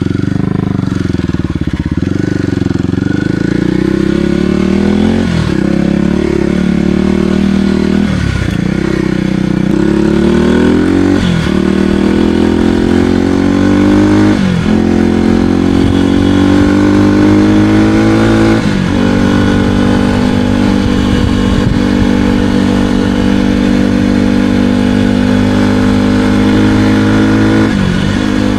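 Kawasaki KLX300R dirt bike's single-cylinder four-stroke engine under way. The revs climb and drop sharply about five times as it shifts through the gears, then hold steady, with a brief dip near the end.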